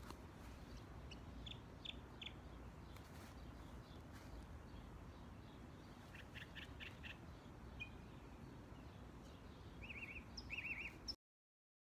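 Faint bird chirps: a few short high notes about a second in, a quick run of them around six seconds in, and two warbled trills near the end, over a low steady background rumble.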